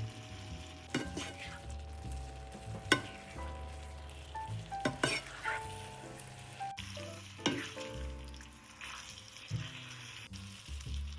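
Food sizzling in a frying pan while it is stirred, the utensil knocking sharply against the pan a few times, loudest once about three seconds in. Soft background music plays under it.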